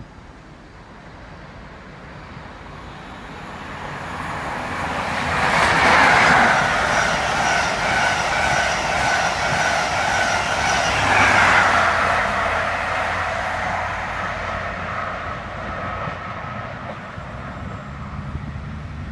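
LNER express passenger train running past on the station tracks, its wheels rumbling on the rails with a steady high ringing tone. The sound swells over a few seconds, stays loud for about six seconds, then slowly fades away.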